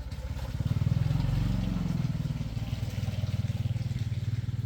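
Restored small boat engine running with a fast, even firing beat; it picks up to its loudest about a second in, then settles into a steady run.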